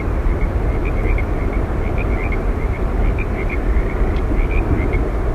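Steady, deep rumbling roar of Yosemite Falls' falling water, with scattered short high chirps over it.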